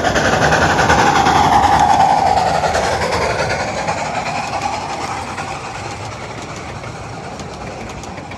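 A 12-inch gauge live steam train running on its track: a steady rumble of wheels on rails with a wavering, higher whining tone over it. It is loudest about two seconds in, then fades gradually.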